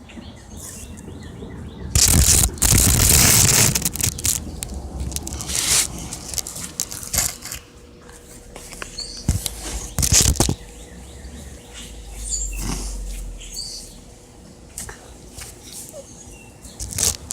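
Rustling and handling noise close to the microphone, loudest for about two seconds near the start, then a few sharp knocks. Faint, short bird chirps come in between.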